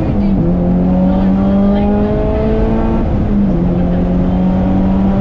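Subaru Impreza WRX STI's turbocharged 2.5-litre flat-four engine pulling hard under acceleration, heard from inside the cabin. Its pitch climbs steadily and drops back at two gear changes, just after the start and about three and a half seconds in.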